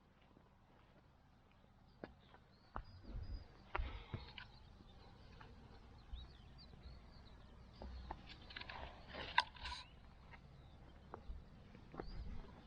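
Faint outdoor background with small birds chirping and scattered knocks and handling clicks, the sharpest cluster about nine seconds in.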